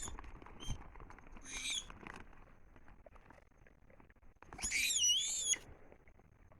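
An animal's high-pitched calls: a short one about a second and a half in, then a longer, wavering one lasting about a second. Faint ticking and rustling lie between the calls.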